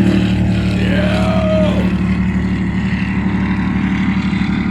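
High-performance powerboat engines running loud and steady as the boats pass. About a second in, a brief tone rises and falls over the drone.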